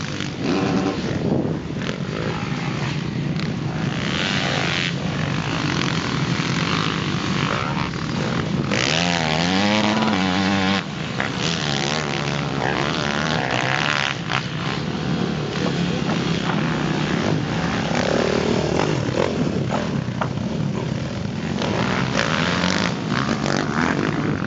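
Motocross dirt bike engines running and revving around the track, loud and continuous, with one engine rising and falling in pitch about nine seconds in.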